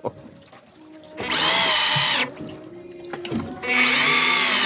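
A small motor whining in two bursts, each spinning up in pitch, holding, then winding down, about a second and a half apart.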